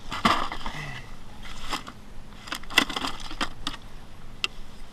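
Scattered clicks, knocks and rustling of gear being handled on a fishing kayak as pliers are fetched to unhook a small striped bass.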